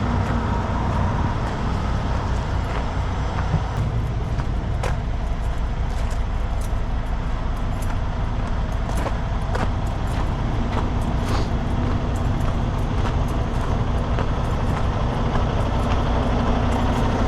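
Heavy truck diesel engine running steadily, with scattered light clicks and knocks over it.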